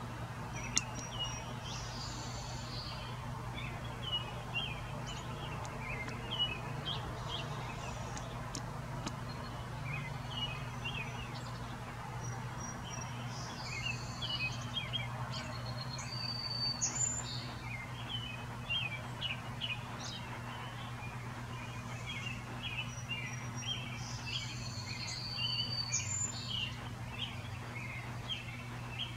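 Birds chirping in short, irregular calls throughout, with a few higher whistled notes now and then, over a steady low hum.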